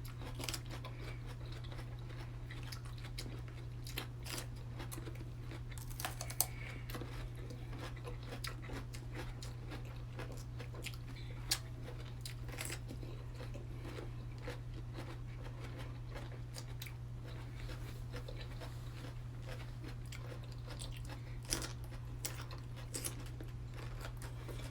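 Two people chewing a mouthful of food as fast as they can, with small crunching and mouth clicks scattered through, over a steady low hum.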